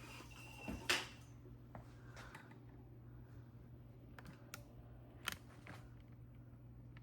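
A few scattered light clicks and knocks, the loudest about a second in, over a steady low hum.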